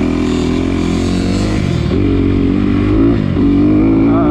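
Off-road vehicle engine running under throttle on a trail ride, its revs rising and falling several times.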